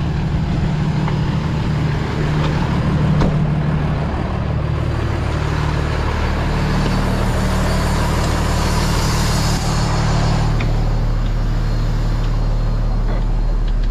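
Heavy diesel truck engine idling steadily while the air system slowly builds pressure. A hiss swells about halfway through and stops about ten seconds in.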